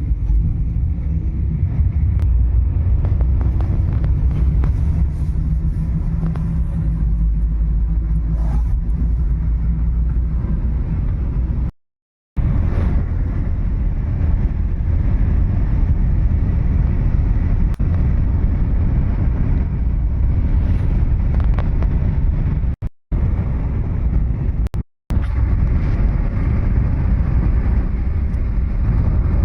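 Car travelling at speed, heard from inside the cabin: a steady low rumble of engine and road noise. It cuts out to silence briefly three times.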